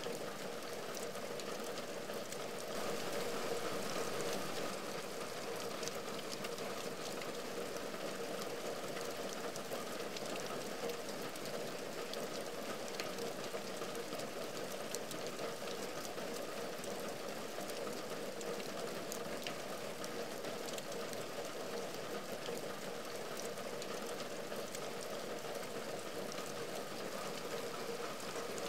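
Steady rain falling on a window and its cornice: many separate drop hits over an even hiss, swelling slightly a few seconds in.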